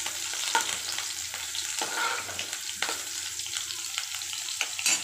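Chopped garlic and green chillies sizzling in hot oil in a kadhai, crackling and spattering, while a spoon stirs and scrapes them around the pan.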